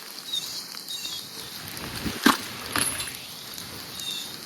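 Steady rain falling, an even hiss of patter, with a couple of sharp knocks a little over two seconds in.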